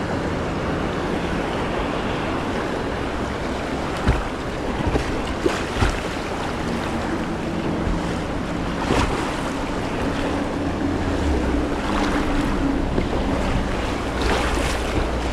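Rushing whitewater of a river heard from a kayak, a steady loud noise of moving water, with wind on the microphone. Several brief sharp splashes or knocks stand out over it.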